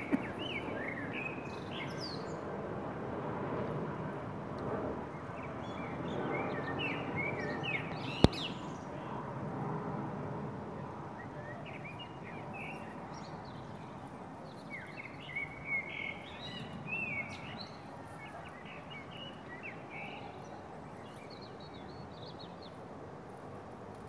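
Birds chirping in short spells of twittering over a steady background of outdoor noise, with a single sharp click about eight seconds in.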